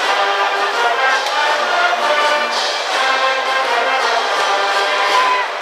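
High-school brass band playing a baseball cheer tune, with trumpets and trombones holding loud sustained notes in short phrases.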